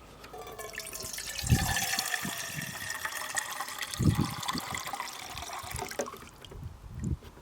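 Water being poured for about six seconds, with a ringing pitch that slides slowly lower and a couple of dull knocks.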